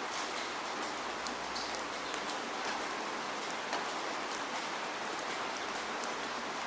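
Steady rain falling, an even hiss with many sharp individual drops pattering on a surface.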